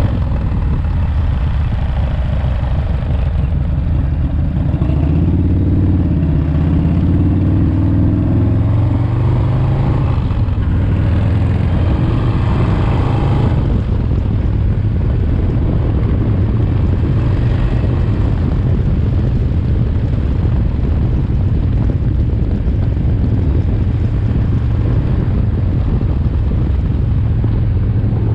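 The rebuilt S&S 107ci V-twin engine of a 1985 Harley-Davidson FXRT running under way during its break-in miles. The engine note rises and falls for about the first ten seconds, then holds steady.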